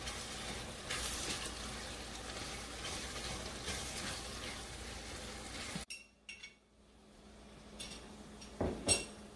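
Chopped onion and tomato with berbere spice sizzling in a stainless steel pan, stirred with a wooden spoon. The sizzle cuts off suddenly about six seconds in, leaving a much quieter background with a short knock near the end.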